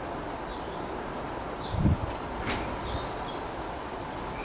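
Faint, short high bird chirps over a steady background hiss, with a dull thump a little under two seconds in and a light click just after.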